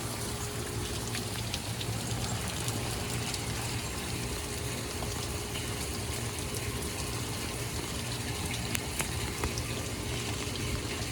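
Rain falling steadily in a thunderstorm, a constant hiss of water with scattered individual drops ticking close to the microphone.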